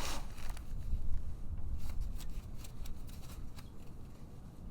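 Light, irregular clicks and rattles of metal parts being handled as the rear brake caliper is worked loose from its bracket after its lower bolt has been removed.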